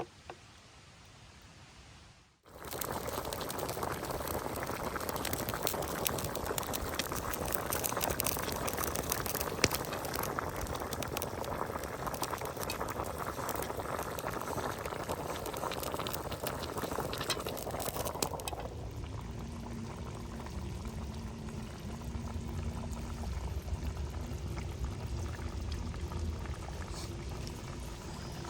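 Steady water noise, dense with small crackles, starting abruptly about two and a half seconds in and dropping to a quieter, lower rush about eighteen seconds in.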